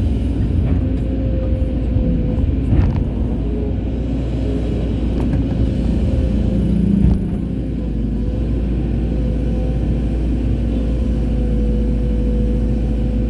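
Excavator's diesel engine running steadily at working revs, with a steady whine over the low drone and a few light knocks.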